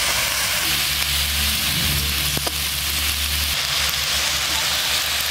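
Chopped wild arum (kharkol) leaves and stems sizzling steadily in a hot metal wok.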